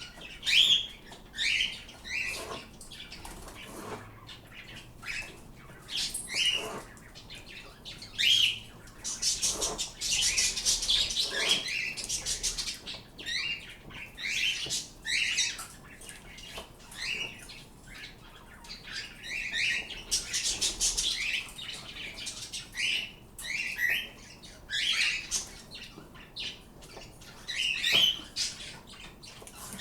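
Pet birds chirping over and over in short rising calls, with two longer harsh, hissy stretches, one about ten seconds in lasting a couple of seconds and a shorter one about twenty seconds in.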